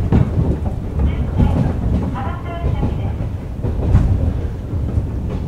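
JR 101 series electric train running on the track, heard on board: a steady low rumble from the wheels and running gear, with sharp knocks over rail joints near the start and about four seconds in.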